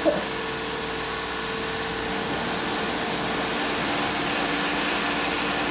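A motor running steadily with a whirring hum, and a short click just at the start.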